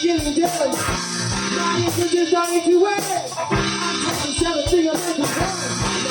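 Live rock band music: electric guitar lines over a drum beat.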